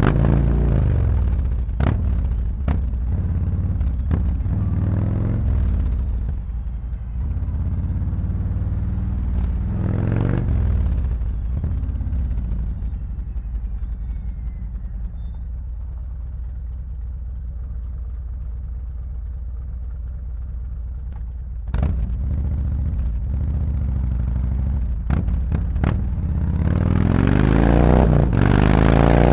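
Harley-Davidson Road Glide's V-twin engine through SuperTrapp 4-inch slip-on mufflers with internal discs, on the move. The revs fall at first, swell briefly about ten seconds in, and settle to a long low, steady run. After a sudden jump in level, the revs climb steadily near the end as the bike accelerates.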